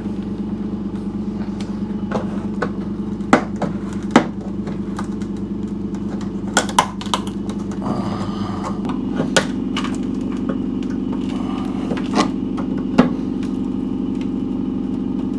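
A steady machine hum with scattered sharp clicks and knocks, like tools and metal being handled.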